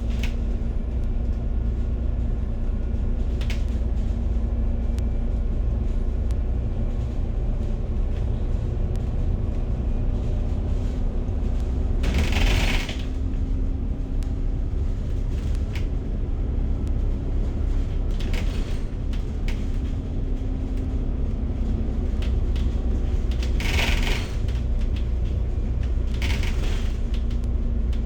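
A city bus riding along, heard from inside the cabin: a steady deep engine and road rumble with a constant hum. Four short hissing noises come through it, the loudest about halfway through and three more later on.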